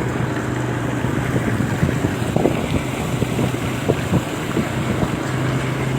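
A vehicle engine running steadily while driving through floodwater, with water sloshing and splashing around it and wind noise on the microphone.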